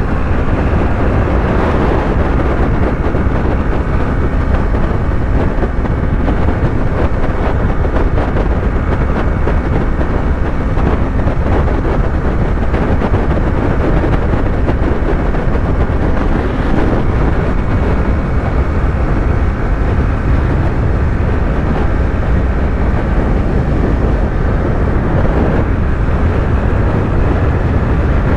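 Yamaha YZF-R3's parallel-twin engine running steadily at highway cruising speed, mixed with wind rush and road noise.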